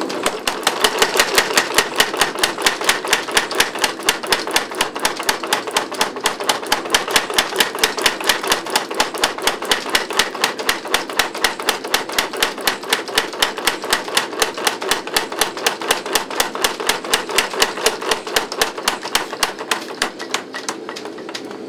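25 lb Little Giant power trip hammer pounding a hot 5160 spring-steel knife blade with a fast, steady run of sharp blows, several a second, drawing out the blade's thick edge to widen it; the blows stop just before the end.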